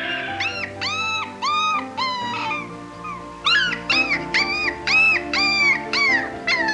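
An animal giving a series of short, high-pitched yelping calls, a few at first, then after a brief pause a quicker run of about seven, over soft piano music.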